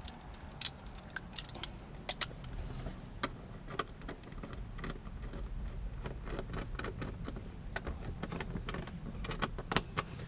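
Irregular metallic clicks and clinks of hand tools on the seat's mounting bolts as they are put back in, coming faster near the end, over a steady low rumble.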